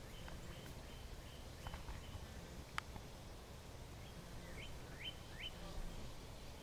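Faint outdoor ambience with a low rumble. A single sharp click comes a little under halfway through, and a bird gives three short rising chirps about three-quarters of the way through.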